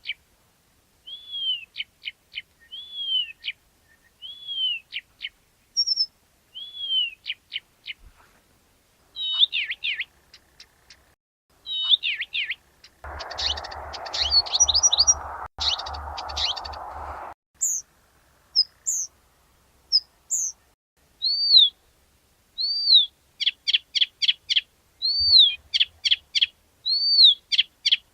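Blyth's reed warbler singing: a run of varied phrases, each repeated a few times, mixing high arched whistled notes with quick dry clicks and buzzy trills. About halfway through, a steady hiss sounds under the song for about four seconds.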